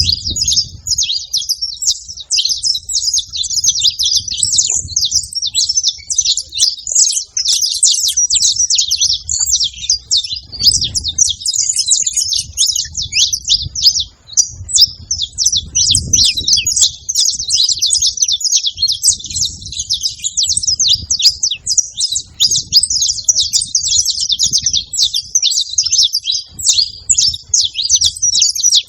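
Saffron finches singing: a dense, continuous stream of rapid high chirps and trills with no break. A low rumble comes and goes underneath.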